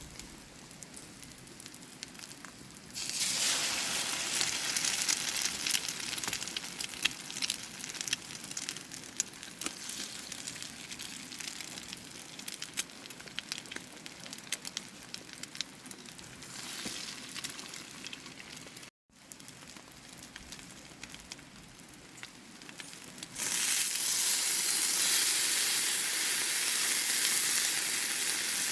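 Food frying in a pan, a steady sizzle with crackles. It jumps sharply louder about three seconds in, eases off after a brief break, then jumps loud again near the end.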